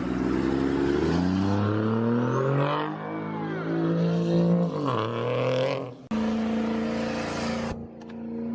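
Vehicle engine revving, its pitch climbing and held high, dropping briefly about five seconds in and climbing again. About six seconds in the sound switches abruptly to a steady engine drone.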